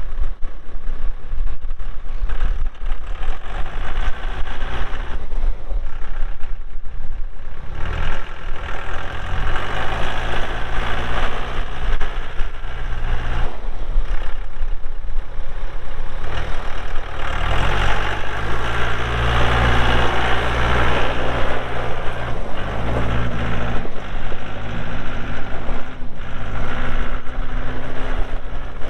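Diesel engine of a Mahindra 3650P tractor running, its speed rising about 8 seconds in and climbing higher between about 17 and 22 seconds before dropping back.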